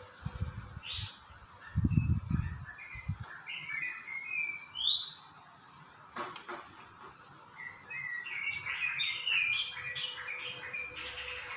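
Small birds chirping and twittering, with a couple of quick rising whistles and a denser run of chirps in the second half. A few dull low thumps come about two seconds in.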